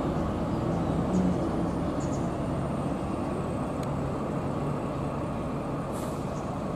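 Bus engine running steadily, a low continuous rumble.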